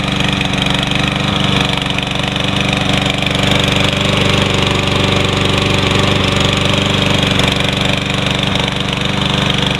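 Troy-Bilt TB110 push mower's Briggs & Stratton 550EX single-cylinder engine running steadily.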